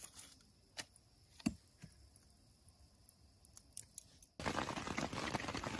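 A few sharp clicks over a faint, steady high-pitched hum. About four seconds in, this cuts abruptly to a loud, even rushing noise.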